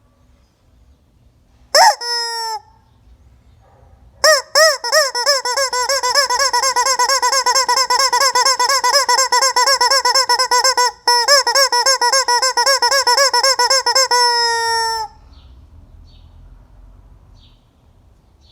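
Squeaky rubber chicken toy squawking: one short squawk about two seconds in, then a long, loud, fluttering squawk from about four seconds that tails off around fifteen seconds.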